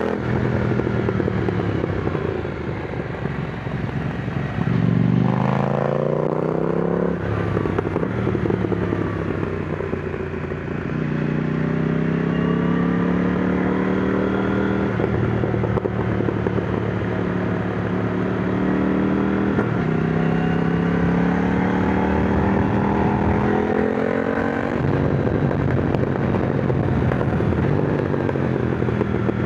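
KTM Duke 990 motorcycle engine pulling hard, its pitch climbing under acceleration and dropping abruptly at several gear changes, with wind rush.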